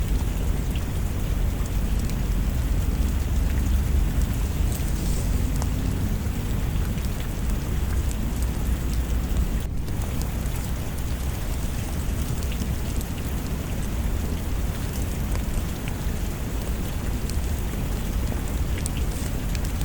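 Steady rain with a deep, continuous low rumble beneath it and scattered small ticks and crackles.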